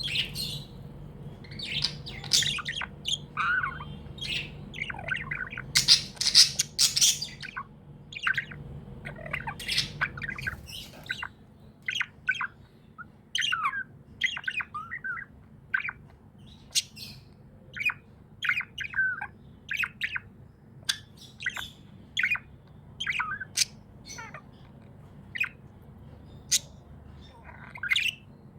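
Pet budgerigars chirping and squawking: a busy, irregular run of short, high chirps and harsher squawks, with a faint low hum in the background that stops about a third of the way in.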